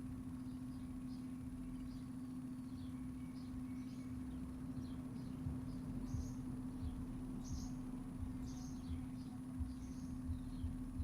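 Small birds chirping in short, scattered calls over a steady low mechanical hum and a faint low rumble.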